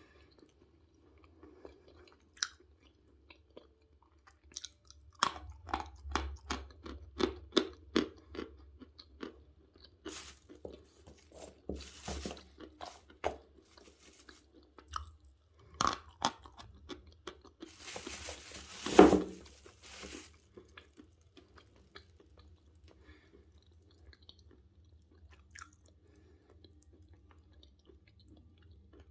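Natural chalk being bitten and crunched up close. There is a run of crisp crunches about five seconds in, bigger bites around ten, twelve and sixteen seconds, and the loudest crunch near nineteen seconds, then softer chewing.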